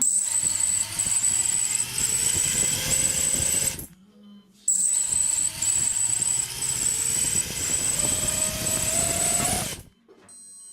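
Brushless motors of a racing drone spinning with a high electric whine, rising in pitch as they spin up. The sound cuts off about four seconds in, starts again half a second later, and stops near the end. One motor only tries to turn slowly, which the owner puts down to a bad motor or ESC.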